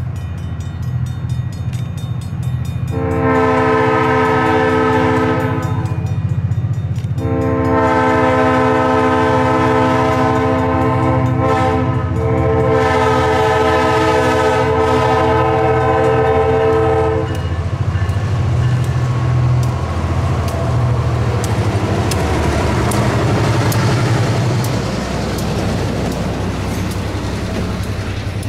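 Diesel locomotive sounding its air horn for a road grade crossing: a long blast, then after a short gap a much longer one, over the steady low rumble of its engine. After the horn stops, the locomotive and passenger cars pass close by, wheels clacking over the rail joints.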